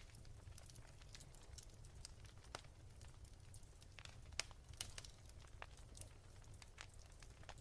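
Wood fire crackling softly: irregular sharp pops and snaps, the loudest about halfway through, over a steady low rumble.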